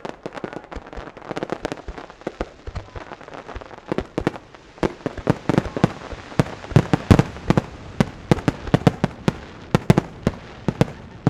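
Starmine fireworks barrage: aerial shells bursting in rapid succession with sharp bangs, the bursts coming thicker and louder from about five seconds in.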